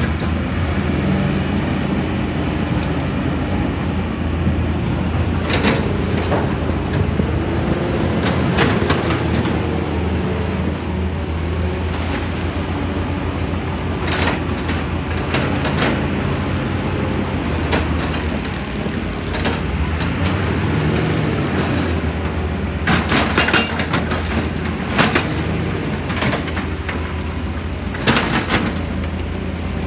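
Heavy excavator's diesel engine running steadily, with occasional short knocks and clatters of rock, a small cluster of them a little after the middle and another near the end.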